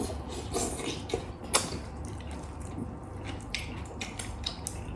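Close-miked eating sounds: chewing with many small wet mouth clicks and crunches, and a sharper click about one and a half seconds in.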